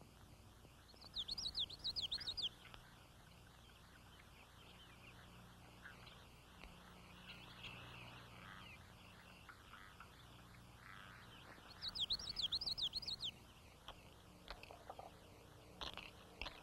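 A songbird sings two short phrases of quick up-and-down chirping notes, about ten seconds apart, over a steady faint hiss. A few faint ticks come near the end.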